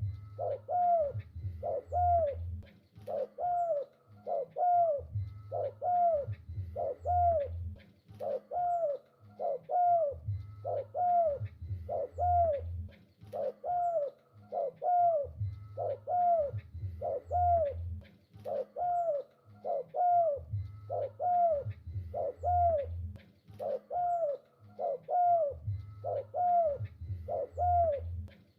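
Spotted dove cooing over and over, a steady run of short arching notes about two a second. A deeper pulsing sound comes in spells of a couple of seconds every few seconds.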